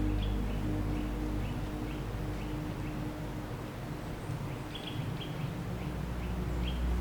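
A small songbird giving short, high chirps in loose runs of several a second, over a steady low hum.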